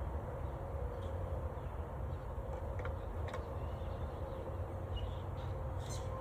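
Outdoor background: a steady low rumble, with a few faint short chirps and clicks over it.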